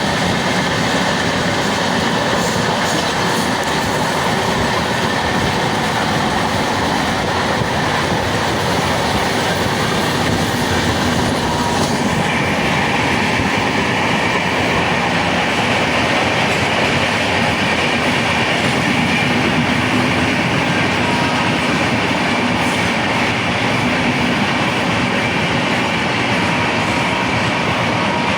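Train running at high speed, a loud, steady rush of wheel and track noise with faint high squealing tones from the wheels. The sound brightens about twelve seconds in.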